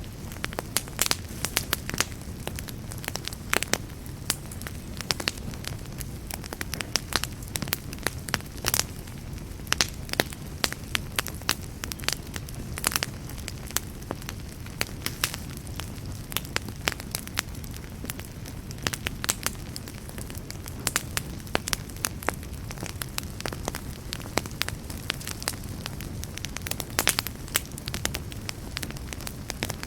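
Campfire burning with a steady low rumble, broken by frequent irregular sharp pops and snaps.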